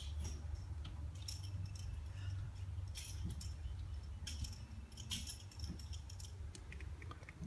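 Scattered light rustles and clicks of handling, several times, over a steady low hum.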